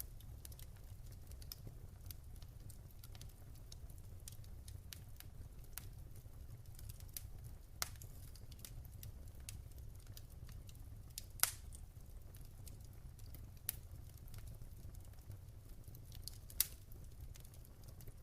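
Wood fire crackling in a fireplace: irregular small sharp crackles, with three louder pops at about 8, 11½ and 16½ seconds, over a low steady rumble.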